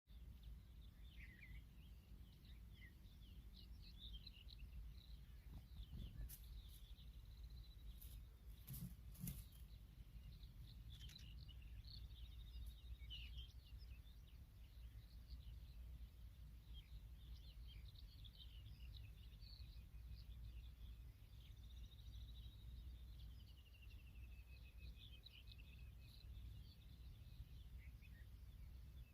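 Faint chirps and warbled calls of small birds over a low, steady rumble, with a few sharp clicks about six and nine seconds in.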